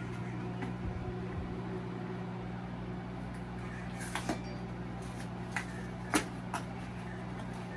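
A pancake-mix kit box being opened and its packets handled: a few short, sharp clicks and crinkles over a steady low hum.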